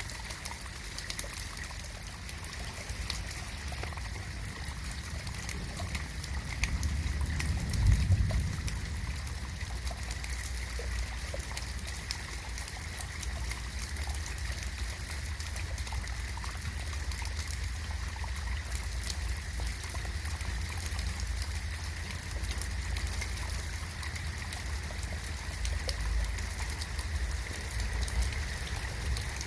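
Steady rain in a garden: a constant hiss dotted with many small drop ticks, over a low rumble. The rumble swells briefly about eight seconds in.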